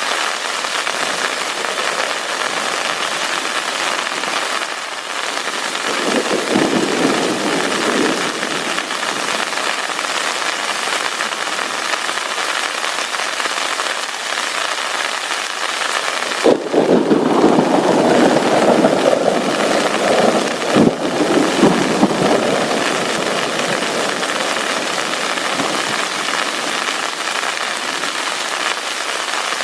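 Heavy rain pouring steadily. Two spells of louder, heavier drumming come about six seconds in and again in the middle, with a couple of sharp knocks.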